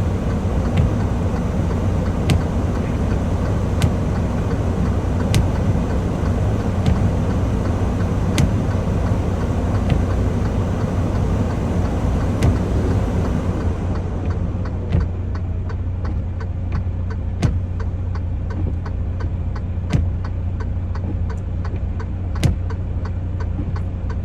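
Semi-truck's diesel engine running steadily with a low hum, with sharp regular clicks over it, about every second and a half at first and coming faster in the second half.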